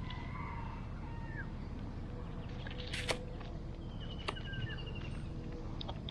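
Small birds chirping and whistling in short calls, with a quick trill about four seconds in, over a steady low outdoor background. Two sharp clicks come about three and four seconds in.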